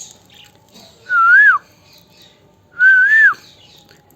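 Two clear whistles about a second and a half apart, each rising and then falling in pitch.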